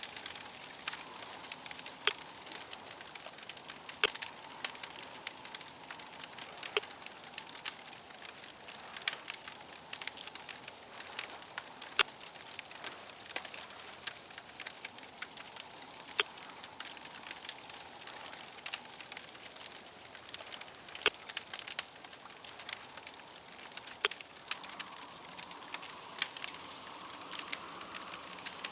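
Wood fire crackling, with frequent sharp, irregular pops over a steady soft hiss.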